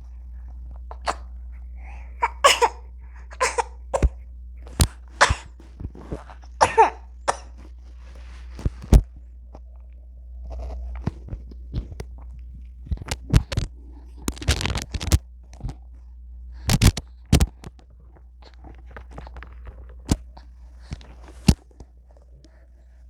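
A baby's short coughs and small vocal noises at irregular intervals, mixed with sharp clicks, over a low steady hum.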